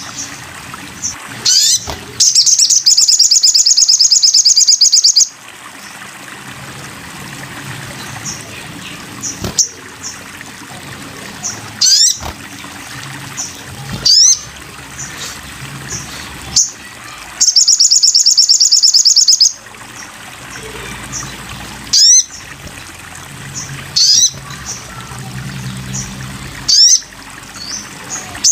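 A sogon (sogok ontong) songbird singing: short, high upward-sweeping call notes repeated every couple of seconds, broken twice by a long, fast, high trill lasting two to three seconds.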